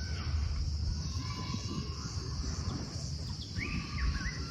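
Outdoor rural ambience: birds chirping now and then, with a cluster of chirps near the end, over a steady high-pitched drone and a low rumble.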